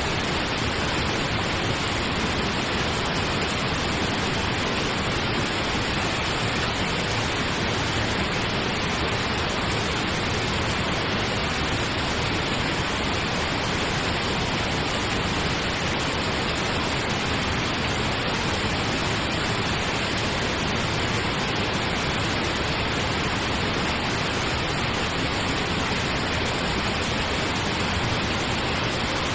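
Steady pink noise: an even, unchanging hiss like a soft waterfall, with no rhythm or events.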